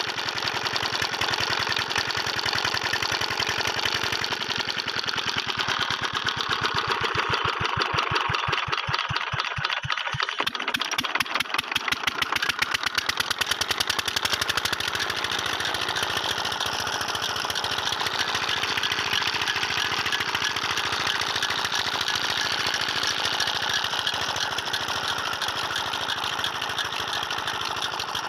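Diesel engine of a tubewell pump running with a fast, even firing beat. The beat changes for a few seconds about a third of the way in, then settles steady again.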